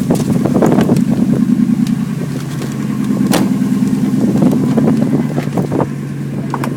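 Ford 5.4-litre V8 idling steadily shortly after a cold start in freezing weather, with one sharp click about halfway through.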